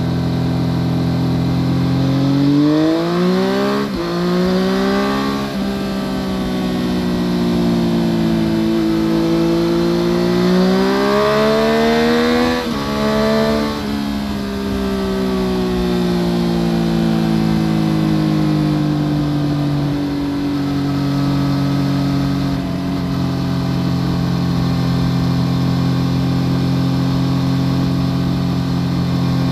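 2014 Yamaha FZ-09's inline three-cylinder engine through an Akrapovic full exhaust, heard from under the seat while riding. It revs up through two quick upshifts in the first few seconds and pulls up again around ten to twelve seconds in. Then the revs fall away and it settles to a steady drone for the last third.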